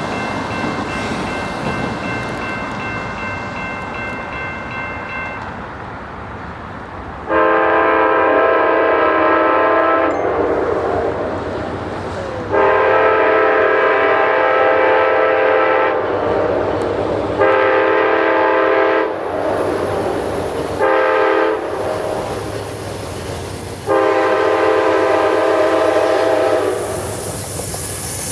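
Locomotive multi-chime air horn sounding the grade-crossing signal: two long blasts, a short one, a brief toot, then a final long blast. Underneath is the steady rumble of the train.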